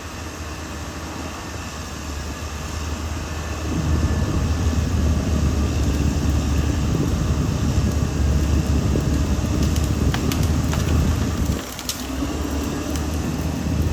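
Caterpillar D6R XL bulldozer's diesel engine running, growing louder about four seconds in and dipping briefly near the end. A few sharp cracks are heard in the last few seconds.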